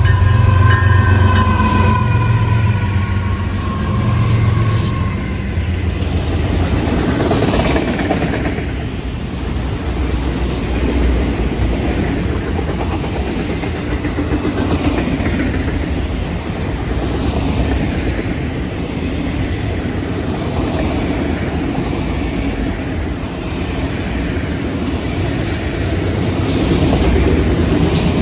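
A Florida East Coast Railway freight train passes at speed. For the first few seconds the lead GE ES44C4 diesel locomotives hum low as they go by. Then a long string of autorack cars rolls past with steady wheel-on-rail clatter and rumble.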